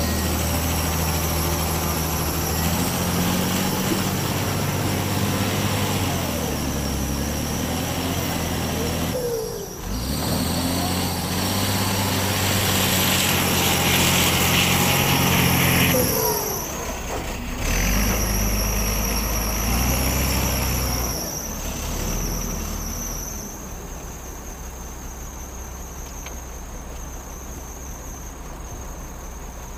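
Heavy diesel machinery engines revving up and settling back in several surges while loading sand, with a few sudden breaks. About two-thirds of the way through, the engine noise drops to a lower steady running sound.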